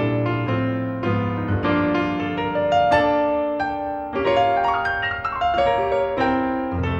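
Solo piano playing a lively accompaniment, with a new note or chord about every half second.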